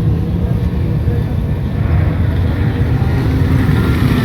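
A river excursion boat's engine running steadily, heard on board as a loud, deep rumble.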